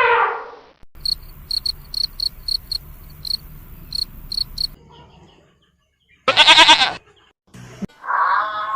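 A series of short animal-sound clips. A run of short high chirps repeats irregularly, about three a second, for a few seconds. About six and a half seconds in comes one brief, loud call with a strong pitch.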